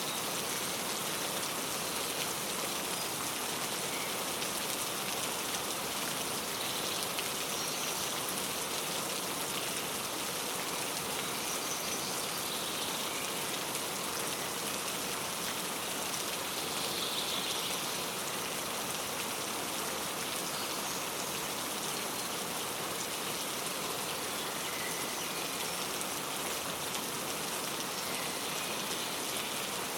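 Steady rain falling and pattering, with a few faint, brief bird chirps here and there above it; the clearest comes about halfway through.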